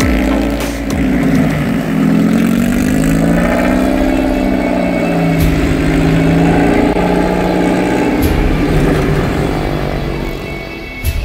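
Rear-mounted Toyota 3S-GE 2.0-litre four-cylinder engine of a tube-frame off-road buggy, revving under load, its pitch rising and falling repeatedly, with a few short knocks.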